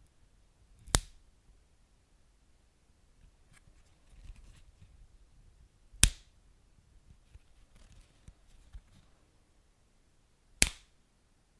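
Wood fire crackling, with three loud sharp pops: about a second in, about six seconds in and near the end, and faint small crackles between them.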